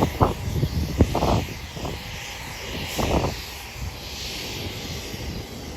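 Jet engine noise from a departing Southwest Boeing 737-700 and its CFM56 turbofans: a steady high rushing hiss that slowly swells and sweeps. Irregular low thumps of wind buffeting the microphone come through it several times.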